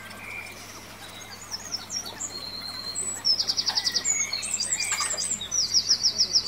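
A songbird singing: high chirps and whistled notes begin about a second in, with two rapid trills, the louder one near the end.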